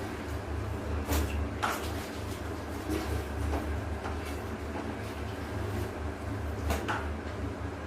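Clothes being washed by hand: a few sharp slaps or splashes of wet cloth over a steady low rumble.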